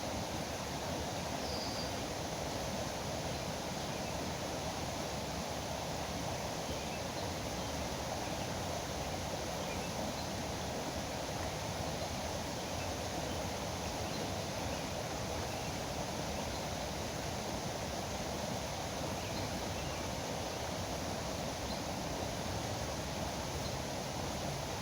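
River water rushing steadily, a constant even hiss of flowing, foaming water, with one faint brief bird chirp about a second and a half in.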